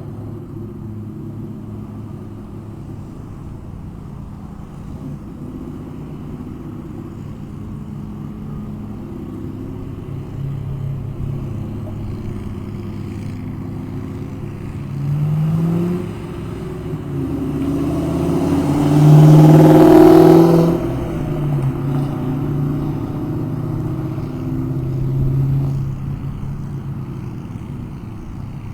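1996 Mustang GT's 4.6-litre V8 running through Flowmaster Super 44 mufflers: a steady, low exhaust note that rises in pitch and loudness briefly about halfway through. It then climbs to a loud rev about two-thirds of the way in, drops back, and swells once more near the end.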